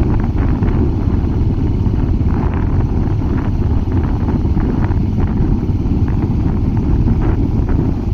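Royal Enfield Hunter 350's single-cylinder engine and exhaust running steadily under way, with no clear revving.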